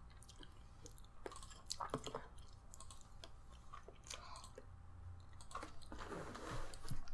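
Faint chewing of food close to the microphone, with a few scattered small clicks.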